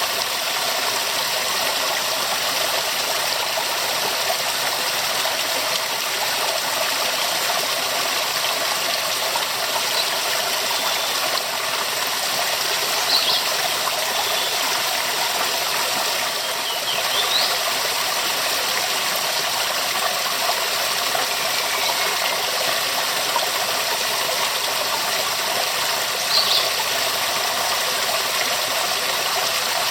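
Waterfall: a steady, dense rush of falling water that holds an even level throughout.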